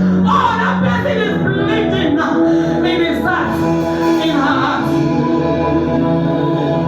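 Church worship music: sustained keyboard chords, with a voice singing over them for the first few seconds.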